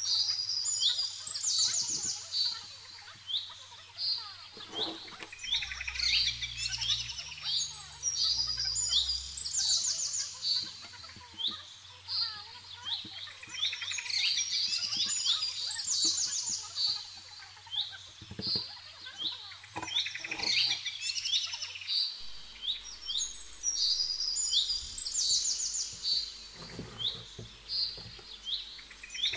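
Birds chirping and singing rapid high trills, in bursts every few seconds.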